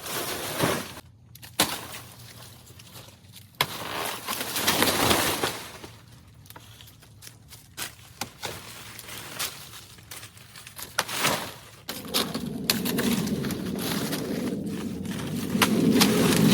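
Sharp snaps, knocks and rustling, typical of banana stalks and leaves being chopped and bunches being handled. About twelve seconds in, a steady low rumble starts and grows louder.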